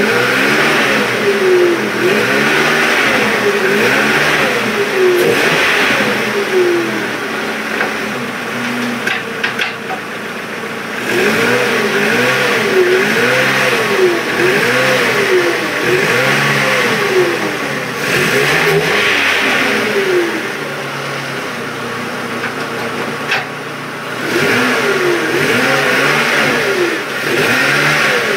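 Ford Focus four-cylinder engine running and being revved up and down over and over, its pitch rising and falling about once a second. It settles into steadier running twice, about a third of the way in and again about three quarters of the way in.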